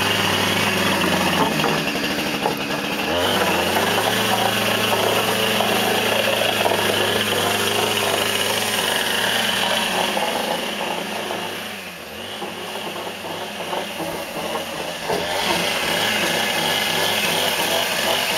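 Chainsaw running at speed, cutting a notch into a log. It eases off about twelve seconds in and revs back up a few seconds later.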